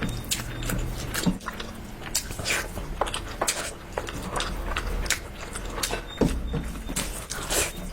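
Chewing and biting into food, a quick irregular run of crunchy clicks and crackles.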